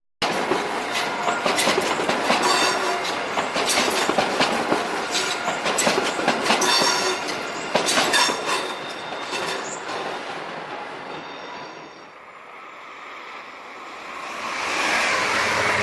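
A train running on rails: wheels clicking over rail joints with a high squeal from the wheels. It fades away around ten to twelve seconds in, then a rising rush of noise builds near the end.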